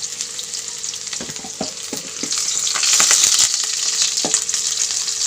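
Onions frying in hot oil, sizzling steadily while a spoon scrapes and knocks against the pan as they are stirred toward golden brown. The sizzle grows louder about two seconds in.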